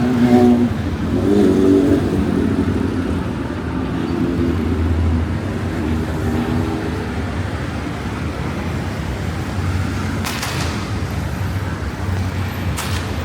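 Street traffic: a motor vehicle's engine running close by, with a low steady rumble, and a couple of sharp cracks near the end.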